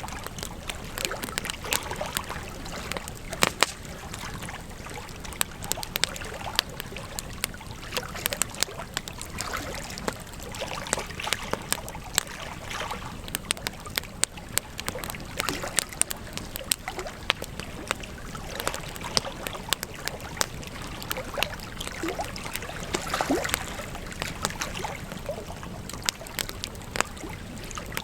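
Campfire crackling: frequent sharp pops and snaps of burning wood, irregularly spaced, over a steady hiss of flame.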